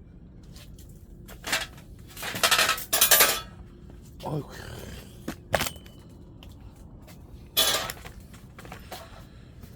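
Metal clanking and scraping against a wood-burning stove while it is cleaned out, in several short bursts with pauses between them, one followed by a brief metallic ring.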